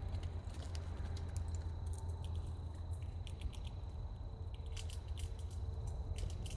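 A squirrel chewing and gnawing food close to the microphone: runs of short, crisp crunching clicks that get busier in the second half, over a steady low rumble.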